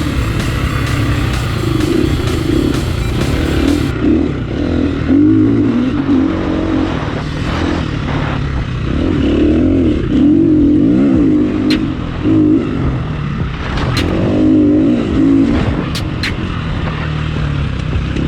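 Dirt bike engine under constant throttle changes, its pitch rising and falling as the rider accelerates and backs off. A few sharp ticks come through in the second half.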